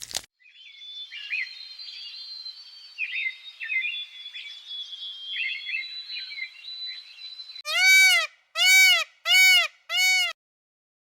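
Birds chirping, many high overlapping calls, then four loud calls from a farm animal in quick succession, each rising and falling in pitch.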